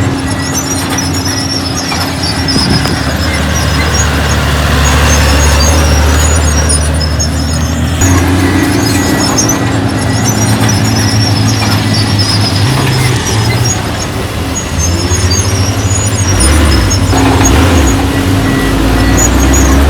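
Heavy diesel earthmoving machinery working, its engine running steadily with a sudden change in pitch about eight seconds in and a brief rev near the end. Bursts of high squealing ride over the engine throughout.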